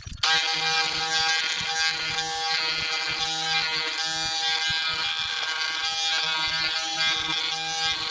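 Oscillating multi-tool with a P60 sandpaper pad running, sanding down a plastic weld on a motorcycle headlamp casing: a steady electric buzz that starts about a quarter second in.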